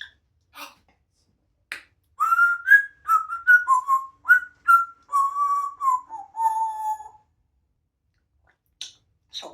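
African grey parrot whistling a tune: a quick run of short whistled notes that step up and down, ending on lower, longer notes that fall a little. A few soft clicks come before and after.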